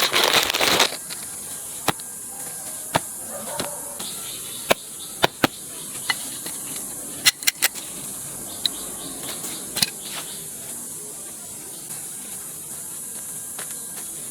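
A gush of water cuts off about a second in. Then come scattered sharp clicks and pops, some in quick twos and threes, over a steady high hiss.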